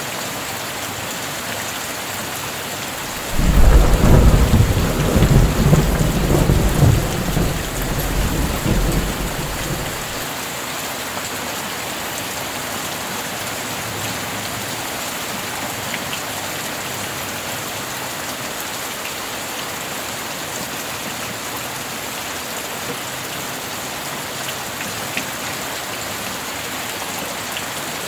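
Steady heavy rain. About three seconds in, a clap of thunder breaks in suddenly and rumbles deep and loud for several seconds before fading away under the rain.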